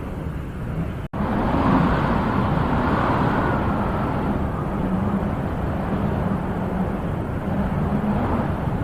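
Wind blowing in a low, steady rush that swells in a gust early on, with a split-second dropout about a second in.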